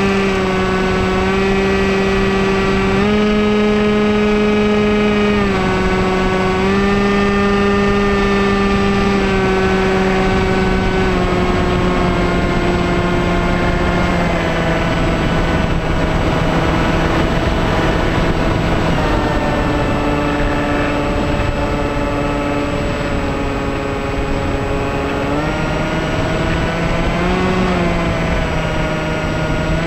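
Electric motor and propeller of a Bixler 2 model plane running at changing throttle: a steady buzzing whine whose pitch steps up and down, sinking lower through the middle and rising again near the end, over a rush of wind noise.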